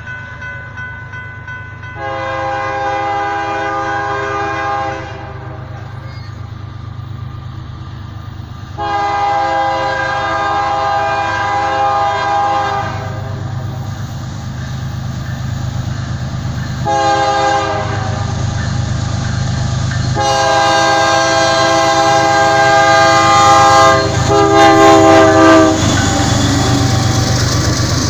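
Norfolk Southern diesel locomotive sounding its multi-chime air horn in the grade-crossing pattern (long, long, short, long) over the low rumble of the engines as the intermodal train approaches. Near the end the horn stops and the rumble and wheel noise of the passing train grow louder.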